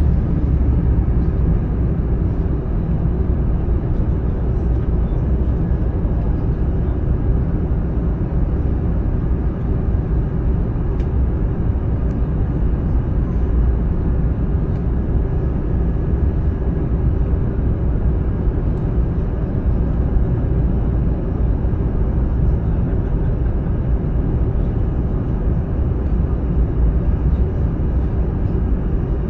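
Steady cabin noise of an Airbus A320-family jet airliner in flight: an even, deep rush of engine and airflow with a faint steady whine, unchanging throughout.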